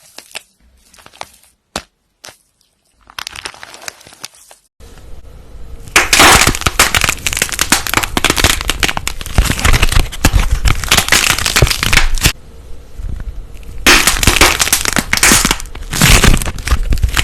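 Close crackling and popping: a few scattered sharp clicks at first, then after an abrupt cut about five seconds in a loud, dense crackle that eases for a second or two and comes back.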